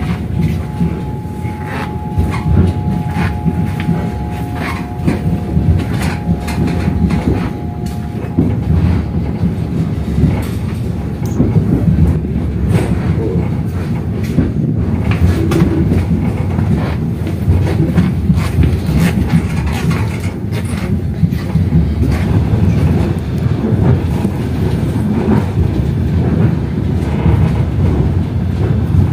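Passenger train running along the line: a steady rumble with wheels clicking over the rail joints. A steady two-note tone sounds through roughly the first eight seconds, then stops.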